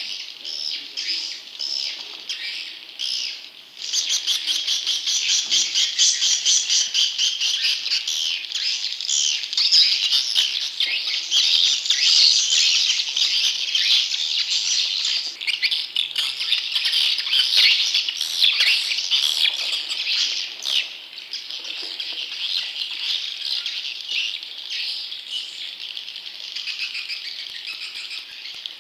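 Swiftlet chicks calling: a dense, fast twittering chatter of short high chirps, which gets louder about four seconds in.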